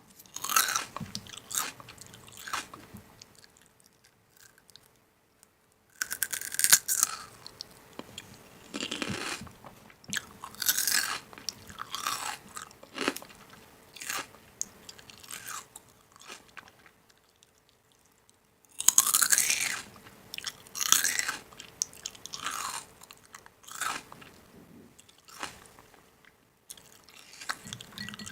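Close-miked crunching and chewing of crisp food, in irregular bursts with short pauses between bites.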